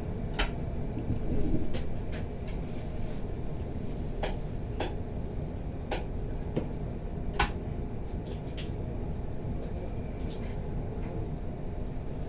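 Bernina Express carriage running on the rails, a steady low rumble from inside the car, with a handful of sharp clicks and knocks at irregular intervals.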